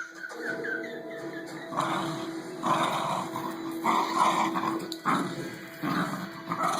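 A dog giving short barks or growls about once a second, over steady background music.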